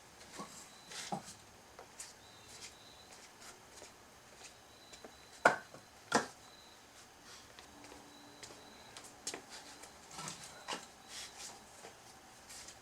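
Scattered knocks of split firewood pieces being handled, with two louder knocks about five and six seconds in.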